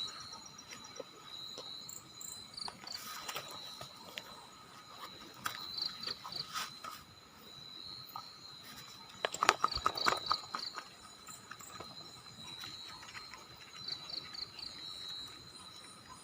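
Night insects, crickets, chirping steadily in a high, pulsing chorus. About halfway through comes a short cluster of sharp clicks and knocks.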